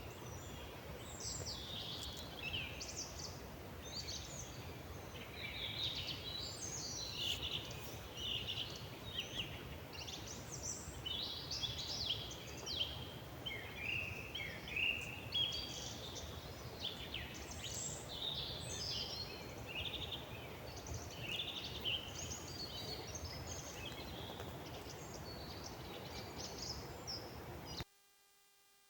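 Several songbirds singing at once, a dense overlapping chorus of chirps and warbles over a low, even background rumble. It cuts off suddenly about a second before the end, leaving a faint steady hum.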